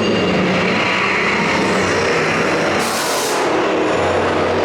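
Test Track ride vehicle running along its track under the ride's music soundtrack, with a short hiss about three seconds in.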